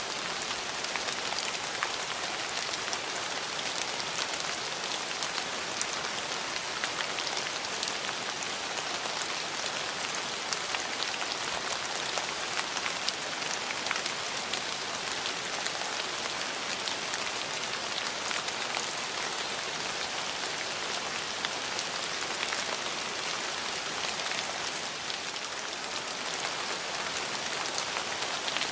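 Steady rain falling on a hard surface, a constant hiss with many sharp drop ticks.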